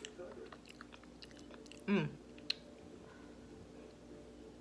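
Close-up chewing of a fried chicken sandwich, with small wet mouth clicks. About two seconds in, a short falling vocal hum from the eater, then a sharp click.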